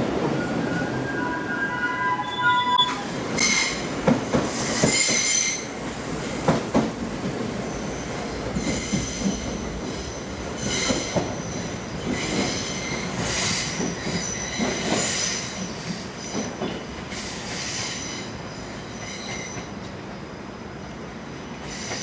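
Train wheels squealing in repeated bursts against the rails over a steady running rumble, a commuter train moving through the station. A few thin whining tones come in the first few seconds, and the squeals ease off near the end.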